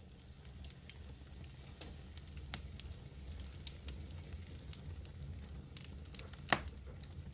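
Medium wood fire burning with a steady low roar and scattered crackles and pops, the loudest single pop near the end.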